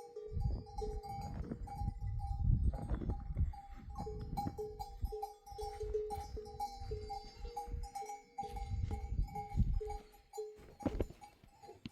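Sheep bells clanking in a steady rhythm, about two strikes a second, over a low rumble.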